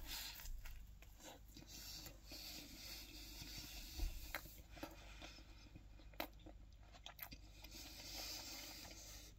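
A person chewing a mouthful of pizza, faint, with soft rustling and a few small clicks.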